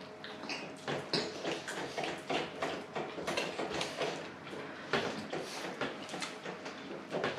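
Chewing and lip-smacking of a person eating a lahmacun, an irregular run of soft wet clicks several times a second.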